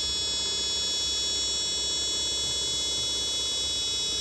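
A faulty switch-mode power supply of a Chinese TV giving a steady high-pitched whine of several stacked tones over a low hum. The whine is the sign of the fault: the regulator puts out only 7 V on the B+ line.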